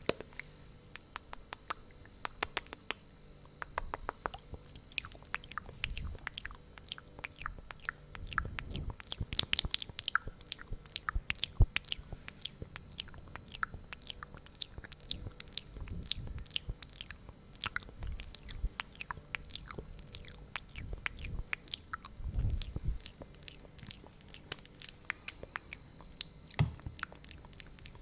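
Close-up, sticky wet mouth sounds from lips coated in thick lip gloss, smacking and parting in quick, irregular clicks.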